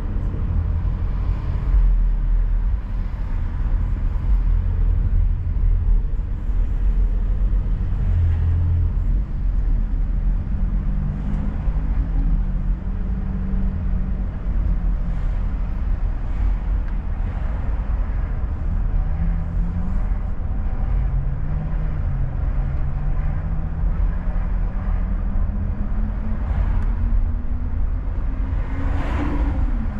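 Car driving: a steady low road rumble with the engine note changing pitch, rising steadily for several seconds near the end as the car accelerates.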